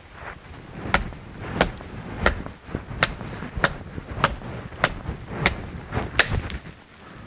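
A hand tool striking hard and evenly, about nine blows at a little more than one a second, stopping near the end, over steady rain.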